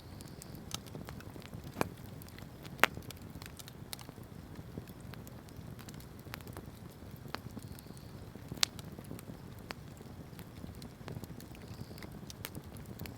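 Wood fire burning with a steady low rumble and scattered sharp crackles and pops, the loudest pops about three seconds and eight and a half seconds in.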